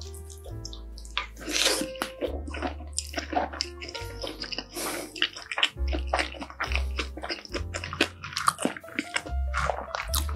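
Close-miked wet chewing of a mouthful of kimchi fried rice, with many small crackling mouth clicks and squelches, over soft background music with a slow bass line.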